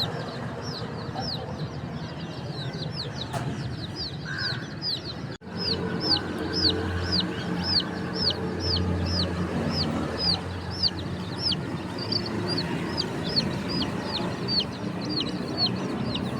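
Baby chicks peeping: a steady string of short, high chirps that each fall in pitch, about two to three a second, over a busier layer of lower chicken sounds. About five seconds in, the sound drops out for a split second.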